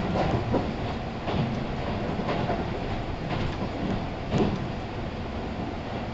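Keihan 3000 series electric train running between stations, heard from inside the carriage: a steady rumble of wheels on rail, with a clack over the rail joints about once a second, the loudest about four and a half seconds in.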